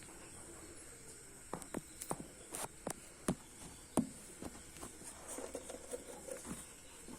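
Scattered light taps and clicks, about a dozen at irregular intervals, with a faint soft rustle between about five and six and a half seconds in.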